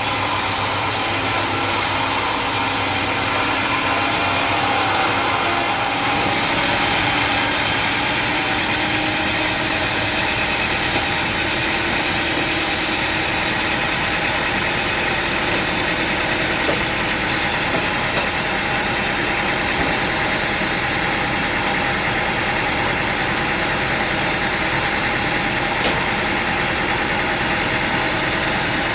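Sawmill machinery running with a steady engine-like drone. The high hiss eases slightly about six seconds in.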